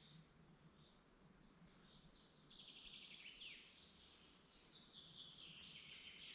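Songbirds singing faintly, with a rapid trill about halfway through and a longer, fuller song phrase near the end.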